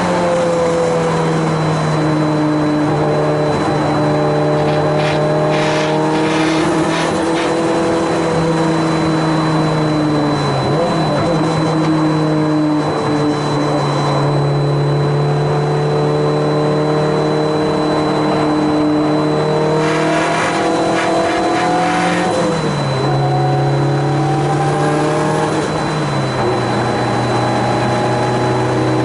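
Time attack race car's engine running under load at fairly steady revs. Its pitch holds level for long stretches and drops in steps a few times, with the biggest drops near the middle and toward the end.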